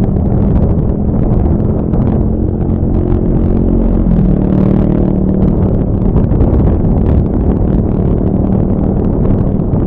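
Honda Scoopy scooter engine running while riding, with a steady engine tone that shifts slightly in pitch about four seconds in, under heavy wind rush on the microphone.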